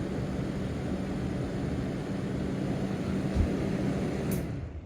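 Broan bathroom exhaust fan running: steady airflow noise over a low motor hum, the fan slowly coming up to speed after a sluggish start, which the owner says it tends to do on cold days. A brief low thump about three and a half seconds in; near the end there is a click and the sound dies away.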